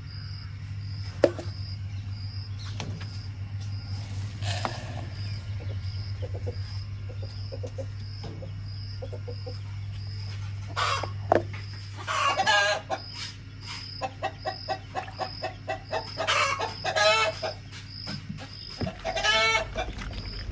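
Chickens clucking in runs of short notes, with louder, longer drawn-out calls about halfway through, again near 16 seconds and once more near the end.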